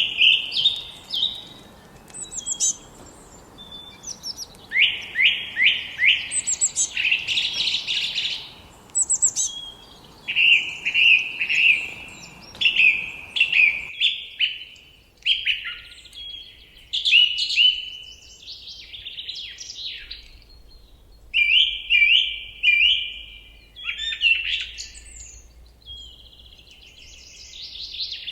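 Forest songbirds singing: a steady run of varied chirps, trills and quick repeated-note phrases, several birds overlapping. A faint background hiss under the song drops away about halfway through.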